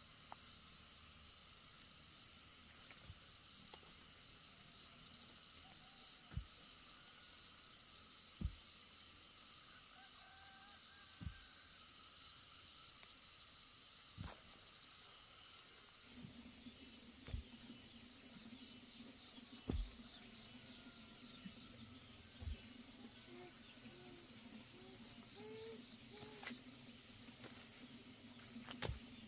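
Steady high-pitched chirring of insects, with scattered dull knocks every few seconds and a few short chirps in the second half.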